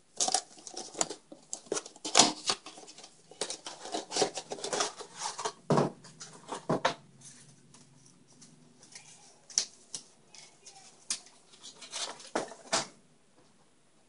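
Hands handling small hard plastic parts and packaging: irregular clicks, taps and crinkles, busy for the first several seconds and then sparser.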